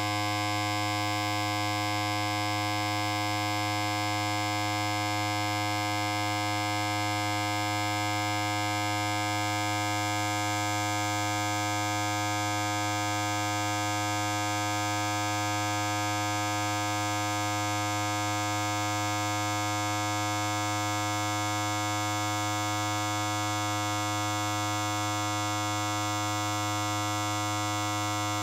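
Electric hair clipper running continuously, a steady, unchanging buzz rich in overtones.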